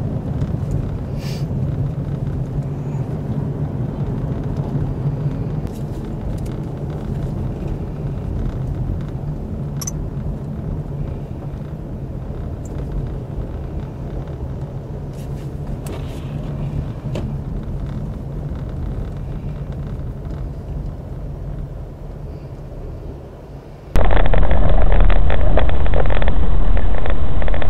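Steady low rumble of a car's engine and tyres heard from inside the moving vehicle, with a faint steady hum and a few light clicks. About 24 seconds in it cuts abruptly to a much louder, duller rumble.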